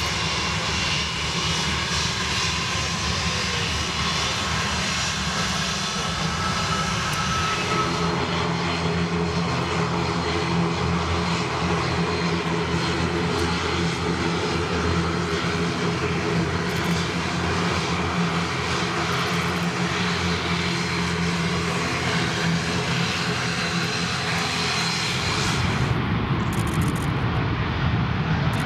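Airbus A320 jet airliner on its takeoff run, engines at takeoff power: a steady, loud jet roar with a low hum that sets in about eight seconds in and shifts near the end.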